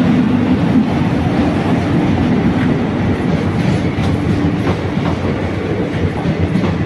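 Indian Railways passenger train running past at speed, a loud steady rush of wheels on rails with a few clacks over the rail joints.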